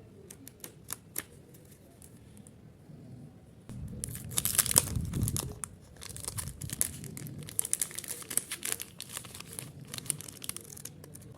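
Packaging crinkling and rustling as it is handled and opened. A few light clicks and taps at first, then about four seconds in the crinkling turns dense and loud and keeps going.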